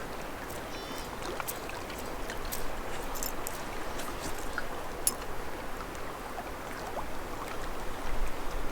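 Gentle water sounds, trickling and lapping, with scattered small clicks.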